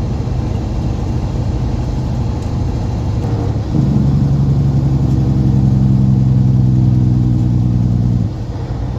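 Loaded semi truck's diesel engine running under way, heard from inside the cab; about four seconds in it becomes louder with a stronger steady drone, holds for about four and a half seconds, then drops back.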